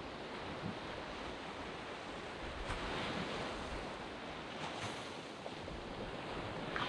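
Waves breaking and washing up a sand beach: a steady wash of surf, swelling briefly a few times.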